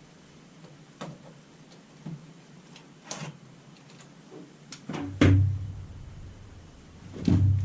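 Scattered knocks and clunks of parts and tools being handled during a battery module teardown, with two louder, heavier thuds about five and seven seconds in.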